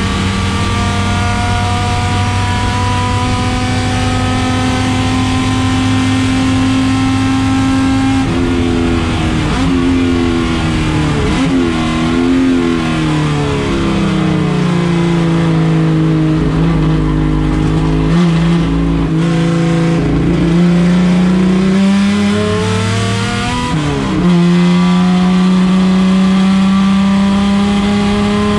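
Race car engine held at high revs, its note climbing slowly for about eight seconds. The revs then drop and swing up and down with the throttle and settle lower, and about 24 seconds in they pick up again with a jump in loudness and hold steady.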